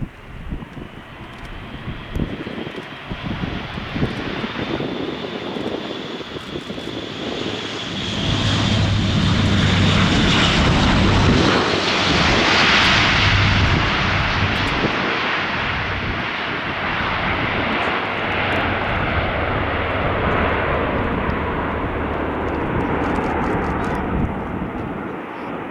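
Airbus A400M's four TP400 turboprop engines passing close: a high turbine whine that sinks slightly in pitch as the aircraft nears, over the low, even drone of the propellers. The sound grows to its loudest about ten to fourteen seconds in, then fades slowly.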